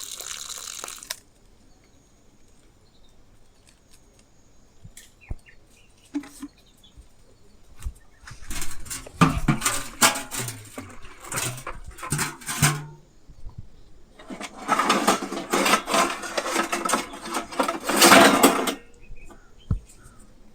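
A stream of water stops about a second in. Then come scattered clicks and two busy spells of clattering and scraping, like metal pots and utensils being handled and washed.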